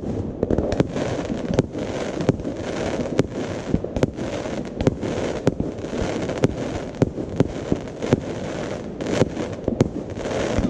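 Fireworks going off: an irregular run of sharp bangs, a few each second, over a steady crackling din.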